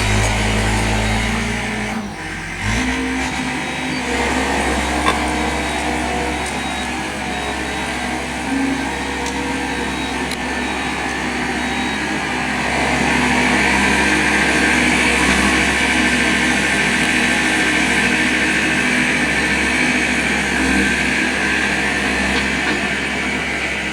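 Loader engine running while the machine works, steady and loud. The sound changes abruptly about two seconds in.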